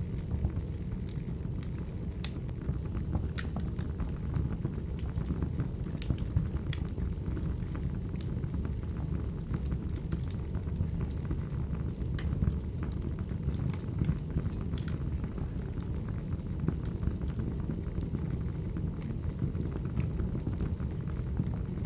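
Firewood burning: a steady low rumble from the fire with irregular sharp crackles and pops.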